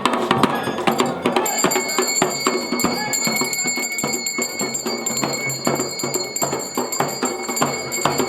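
Dhol and damau drums played in a fast, steady beat of strikes. About a second and a half in, a steady high ringing tone joins and holds.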